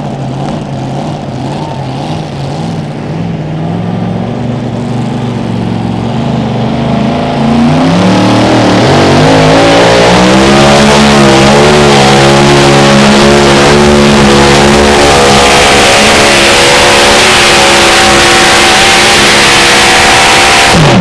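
Mini rod pulling tractor's engine running at the line, then climbing to full throttle about eight seconds in and running flat out at a steady pitch as it pulls the sled. The engine is shut off abruptly at the very end.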